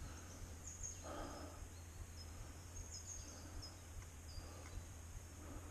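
Quiet forest ambience: small birds giving short, high chirps scattered through, over a faint steady high hiss, with a soft rustle about a second in.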